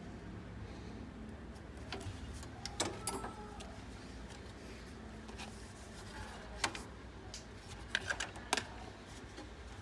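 Scattered light clicks and taps, a few at a time, over a low steady hum.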